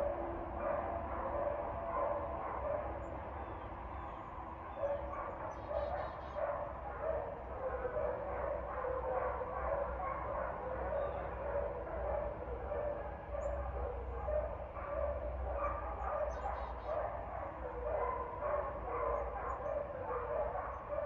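Dogs barking steadily, short barks coming a couple of times a second without a break, over a steady low hum.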